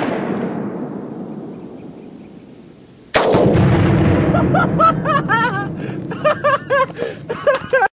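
Rolling echo of a Tannerite explosion dying away over about three seconds, then a second sudden loud blast a little after three seconds in, whose long rumble carries on with wavering high-pitched sounds over it until it cuts off abruptly.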